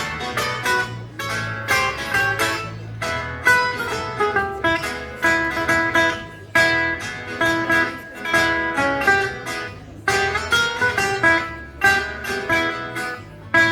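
A guitar ensemble playing an upbeat rock-and-roll tune, with quickly plucked melody notes over strummed chords in a steady rhythm.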